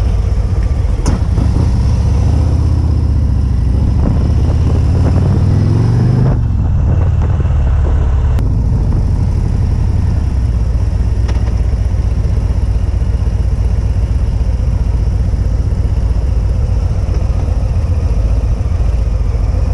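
Harley-Davidson Street Glide ST's Milwaukee-Eight 117 V-twin pulling away, its note rising for the first six seconds or so and then dropping sharply at a gear change. After that it runs steadily at cruising speed, with heavy wind noise on the action-camera microphone.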